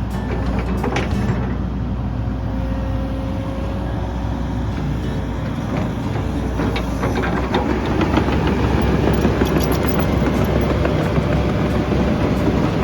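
Excavator's diesel engine running steadily as the machine works, with scattered knocks and clanks; the working noise grows louder about seven and a half seconds in.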